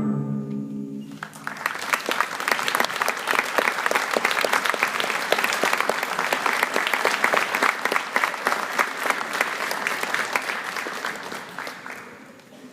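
The last held chord of a school concert band dies away in the first second, then an audience breaks into steady applause that lasts about ten seconds and dies down near the end.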